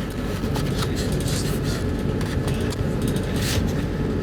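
Steady low rumble of the Arlanda Express train running, with scattered light clicks and rattles.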